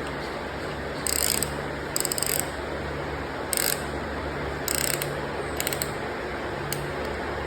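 Hand ratchet wrench clicking in about six short bursts during engine assembly work, over a steady low hum.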